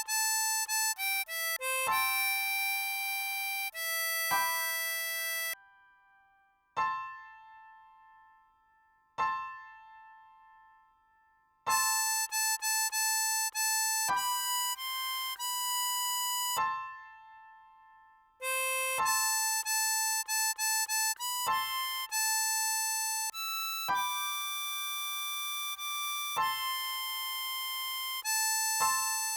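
Ten-hole diatonic harmonica playing a song melody in phrases of held notes. About a quarter of the way in there is a gap of around six seconds, broken only by three short notes that fade out.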